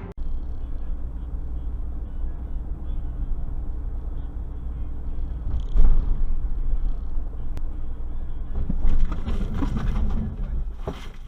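Steady low rumble of a car driving, as picked up by a dashcam, with a sudden loud knock about six seconds in and a stretch of louder, rougher noise near the end.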